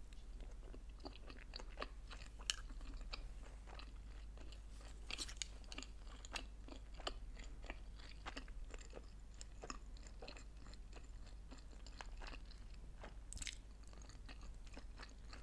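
A person quietly chewing a mouthful of sushi roll close to the microphone: many small, soft mouth clicks and smacks, with a few louder ones.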